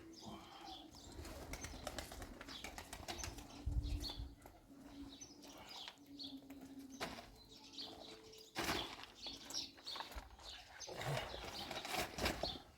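Pigeons or doves cooing in low, drawn-out phrases, mixed with scattered sharp knocks and clatter.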